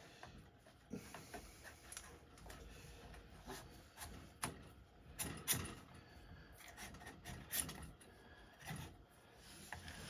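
Scattered faint clicks, knocks and rubbing as parts of an Airmaks Caiman X PCP air rifle are handled and worked apart.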